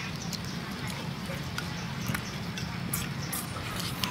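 Eating sounds: chewing cooked lobster claw meat, with scattered short clicks and crackles of the shell, over a steady low hum.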